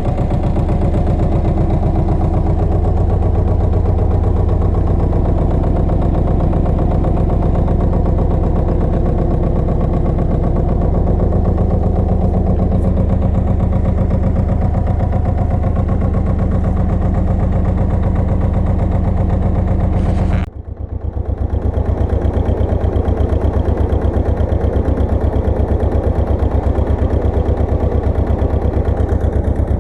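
Pasquali 980 EX two-wheel tractor's engine running steadily. About two-thirds of the way through, the sound drops out for a moment and comes back rougher and noisier.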